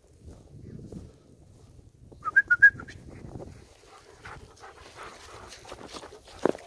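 A shepherd dog giving a quick run of four or five short, high whines about two seconds in, followed by a hiker's and dogs' footsteps crackling.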